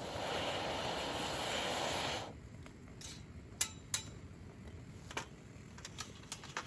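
A steady rushing hiss for about two seconds, then several sharp clinks of camp cookware and utensils.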